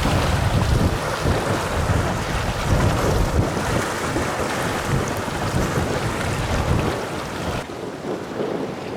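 Wind buffeting the microphone in gusts over a steady rushing noise. About three-quarters of the way through, the sound drops abruptly and becomes quieter and duller.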